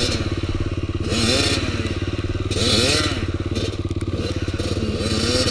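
Dirt bike engine running, revved up and back down several times. Two louder bursts of hiss come about a second in and near the middle.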